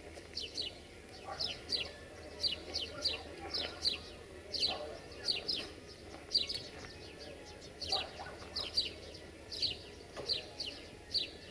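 Songbird chirping: a running series of short, high, downward-sliding chirps, mostly in twos and threes.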